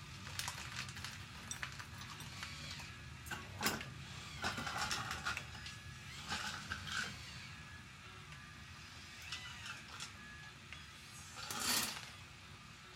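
Small electric gear motors of a radio-controlled construction model whining in short spells, with irregular plastic clicks and rattles of moving parts.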